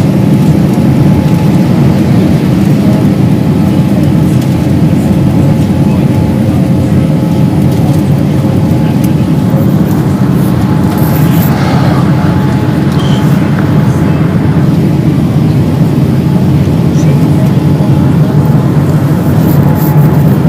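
Steady, loud cabin noise inside a Boeing 787-8 Dreamliner airliner: jet engine and airflow noise, low and even, with faint steady whistling tones above it.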